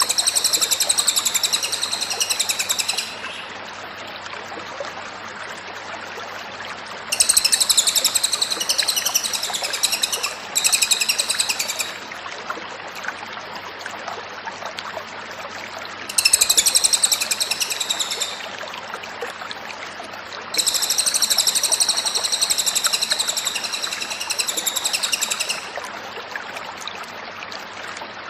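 Cililin bird singing in bouts of high, rapidly repeated notes. There are about five bouts, each lasting a few seconds, separated by short pauses over a steady background hiss.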